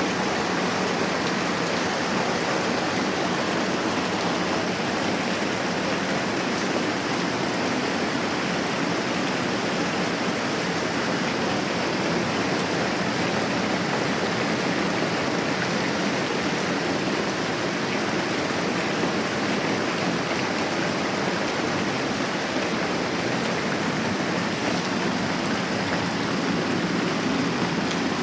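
Moderate rain falling steadily, a dense, even hiss with no change in strength.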